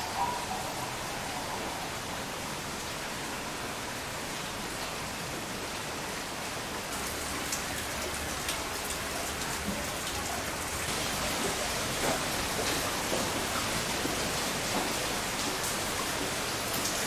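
Heavy typhoon rain falling steadily, with scattered sharper drops tapping. The rain grows a little louder about two-thirds of the way through.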